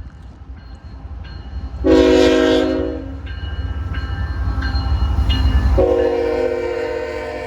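Diesel freight locomotive sounding its multi-chime air horn in two long blasts, the first about two seconds in and the second starting near six seconds and still going at the end. A heavy low rumble from the engine and the train swells between the blasts, with faint regular ringing strikes before the first blast.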